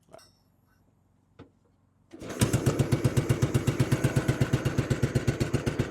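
Royal Enfield Bullet 500's single-cylinder four-stroke engine kick-started from cold. About two seconds in it catches and settles into a steady, rapid idle beat.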